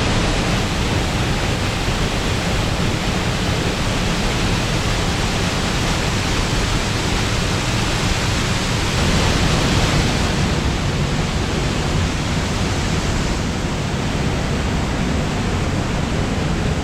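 Small waterfall, Viðarfoss, rushing loudly and steadily.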